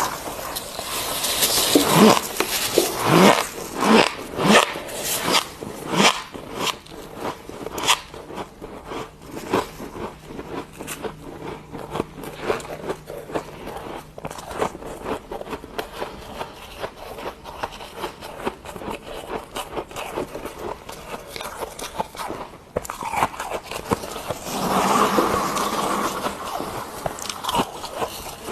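Freezer frost being bitten and chewed close to the microphone: a run of squeaky crunches, loudest and densest in the first several seconds, then steady smaller crackles, with a louder burst of chewing near the end.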